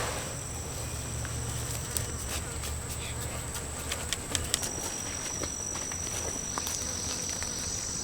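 Insects droning in steady, high-pitched tones, with a few scattered sharp clicks and snaps in the middle.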